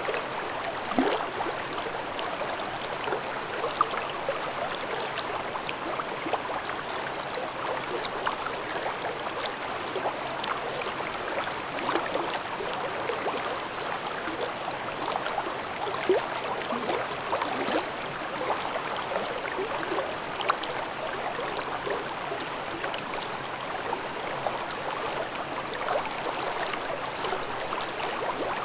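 Shallow mountain stream babbling over rocks: a steady rush of water with many small splashes and gurgles.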